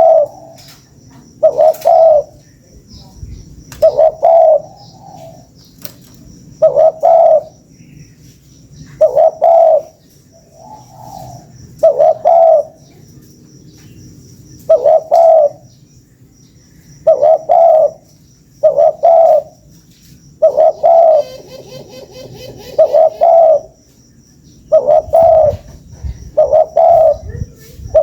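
Spotted dove (tekukur) cooing: short, deep coo notes repeated every one to three seconds, some phrases ending with a second, softer note.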